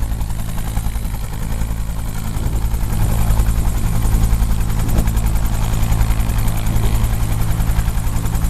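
Bell UH-1 Huey helicopter running close by: its turbine whine and the fast, steady chop of its two-blade main rotor, growing a little louder about three seconds in.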